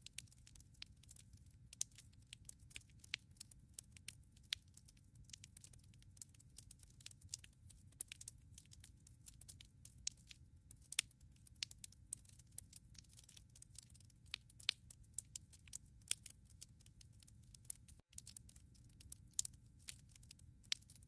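Firewood crackling in a fireplace: irregular snaps and pops, several a second and varying in strength, over a steady low rumble.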